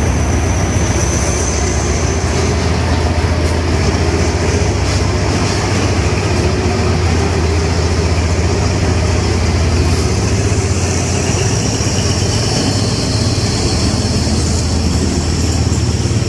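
Diesel passenger train passing slowly alongside a station platform: the locomotive's engine gives a steady deep drone over the rumble of the coaches rolling on the rails. A thin high whine fades out about two seconds in and returns later, dipping and rising in pitch.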